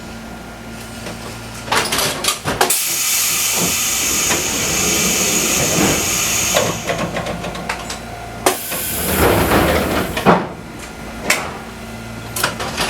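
Compressed air hissing on a Fukui Railway 200-series railcar in two long blasts, the first about three seconds in and lasting some four seconds, the second shorter, about eight seconds in. Clicks and knocks come around them, over a low steady hum.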